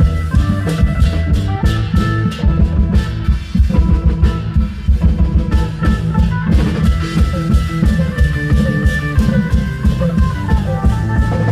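Klong yao long-drum troupe music: dense, driving drumming with a melody of held notes played over it.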